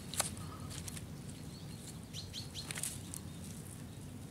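Small birds chirping in the background: a few short, falling chirps in a cluster a little past the middle, over a low steady rumble. A single sharp click just after the start.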